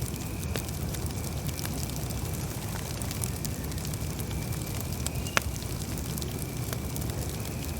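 Campfire crackling: a steady low rumble of burning wood with scattered small crackles, and one sharp, louder pop about five seconds in.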